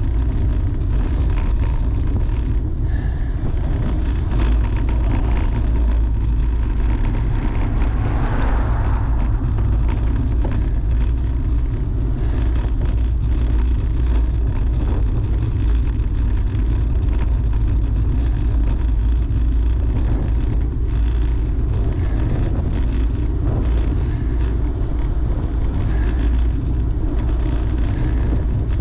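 Steady wind rush over the microphone of a camera riding along on a road bike, strongest in the deep low end.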